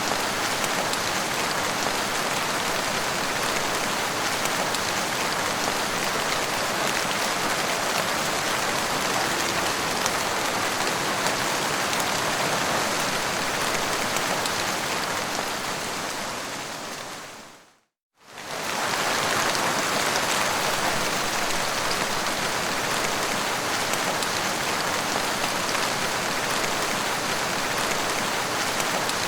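Steady, heavy rainfall. About two-thirds of the way through it fades out to a moment of silence and fades straight back in.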